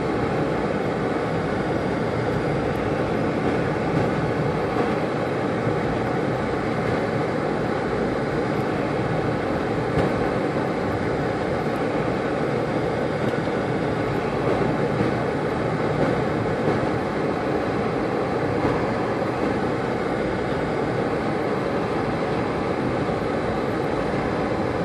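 Steady road noise of a car driving on a snow-covered road, heard from inside the cabin: engine and tyres running at an even pace.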